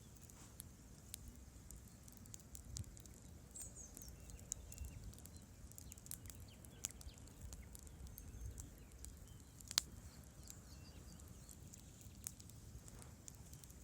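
Wood campfire burning, with scattered crackles and pops over a low rumble of flame. One sharp snap, louder than the rest, comes near the end.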